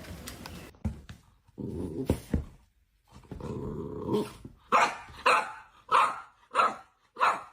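A dog growling in two longer spells, then barking about six times in quick succession in the second half.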